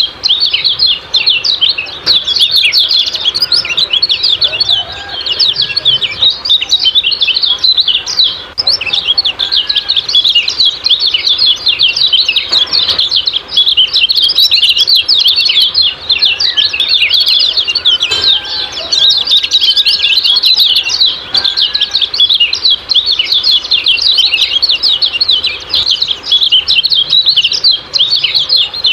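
Kecial kuning white-eyes giving their rapid, high-pitched 'ciak-ciak' chattering calls: a dense, unbroken stream of short chirps, with a few fainter lower whistles mixed in.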